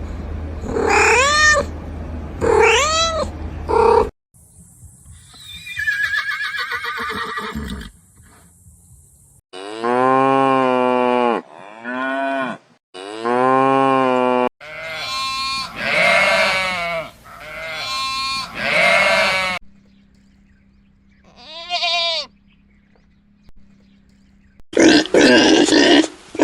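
A string of different animal calls cut one after another, mostly livestock: pitched calls a second or two long, several rising and falling in pitch, with short breaks between the clips.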